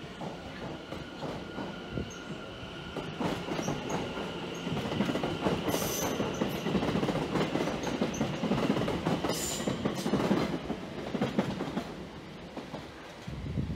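London Overground Class 710 electric multiple unit passing along the line, its wheels rumbling and clattering on the rails, growing louder as it goes by and then easing off. Two brief high wheel squeals stand out, about six seconds in and again a few seconds later.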